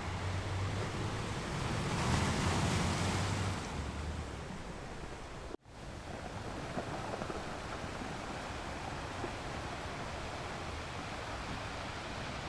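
Ocean surf washing onto a shore, with one wave swelling and breaking about two seconds in, and wind rumbling on the microphone. The sound cuts out for an instant about halfway through, then the surf carries on steadily.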